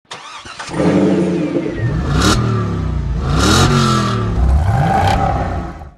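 Car engine revving: it runs steadily, then revs up and drops back three times, fading out near the end.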